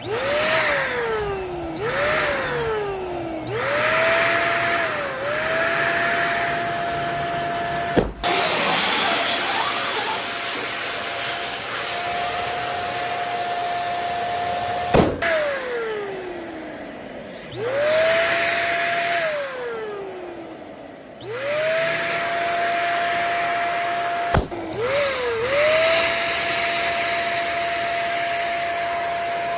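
A small electric balloon pump whirring in repeated bursts, its pitch rising as it spins up and falling away when switched off. Three sharp pops, from balloons bursting, come about 8, 15 and 24 seconds in.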